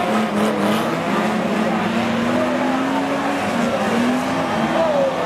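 Engines of several banger-racing stock cars revving while the cars are locked together in a pile-up, their pitch climbing slowly over a couple of seconds and dropping back, then rising again.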